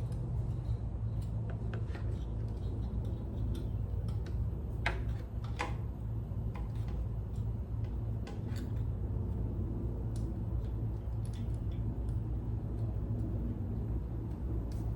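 Scattered light clicks and taps of small parts and tools being handled during engine reassembly, two slightly louder ones about five seconds in, over a steady low hum.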